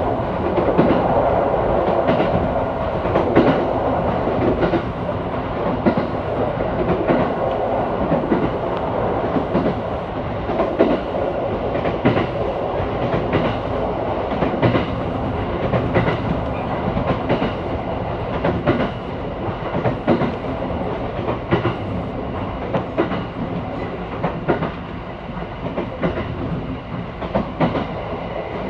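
Passenger train running, heard from inside the carriage: a steady rumble of wheels on the rails with frequent irregular clicks and clacks from the track.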